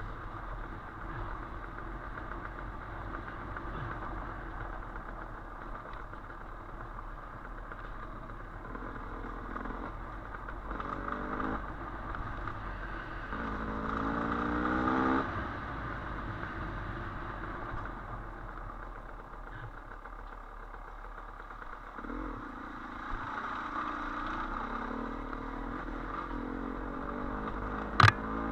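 Dirt bike engine running at trail pace, the revs rising twice in the middle as the throttle is opened. A single sharp knock near the end.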